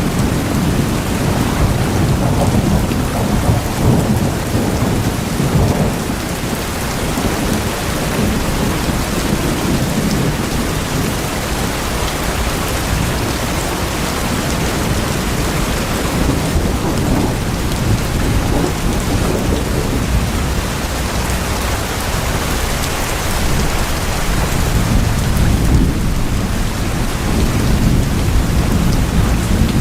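Steady heavy rain drumming on tin sheeting, with a deep low rumble under the patter.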